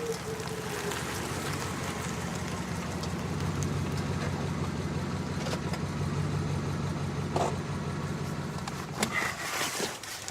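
Car engine idling steadily, with a few clicks and knocks near the end.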